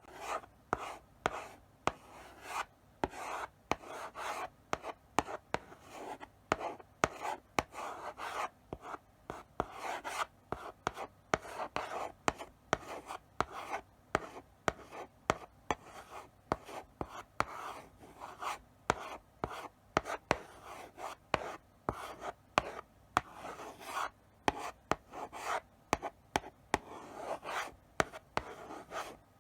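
Chalk writing slowly on a blackboard: short scratchy strokes broken by sharp taps as the chalk meets the board, a few a second, with brief pauses between letters.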